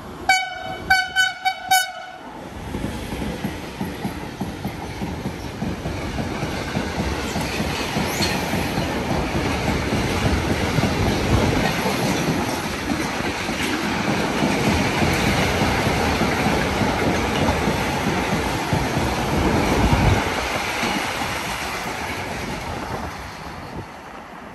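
A train's horn gives a quick run of about six short toots. Then the train runs through the station without stopping: a long rumble of wheels on rail with clickety-clack that builds, peaks about twenty seconds in and fades away.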